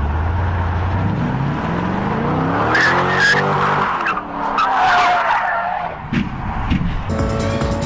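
Car engine revving hard, its pitch climbing and then falling away, with tyres squealing in bursts about three and five seconds in. A few short knocks follow near the end.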